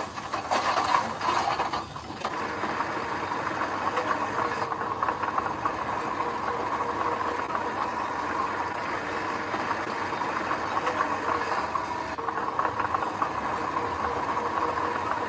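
Construction machinery running steadily: a diesel engine with dense metallic clatter, after a louder rush of noise in the first two seconds.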